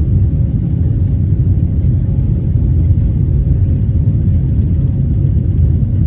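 Boeing 737-800's CFM56 turbofan engines at takeoff power: a steady, loud, low rumble.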